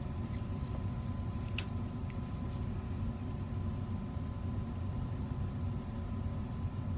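Steady low rumble of background machinery, with a faint steady hum and a few faint ticks about two seconds in.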